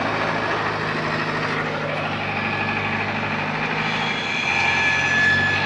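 Heavy diesel engine running steadily, typical of a Hydra pick-and-carry crane at work, with a steady high whine joining about four seconds in.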